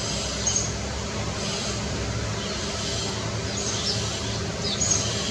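Short, high bird chirps, about five scattered through, some sliding down in pitch, over a steady low rumble and hum of background noise.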